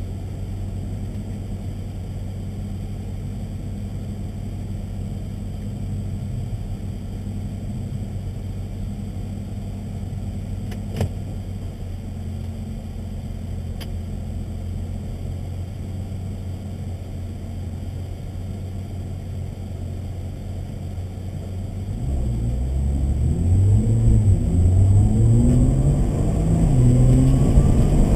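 Nissan GT-R's twin-turbo V6 idling steadily, heard from inside the cabin. About 22 seconds in it pulls away and accelerates hard, its pitch rising in steps as it shifts up through the gears.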